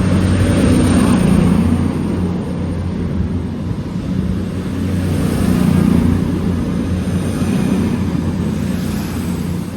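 A train's engine running at a station platform: a steady low drone that swells about a second in and again around six seconds in.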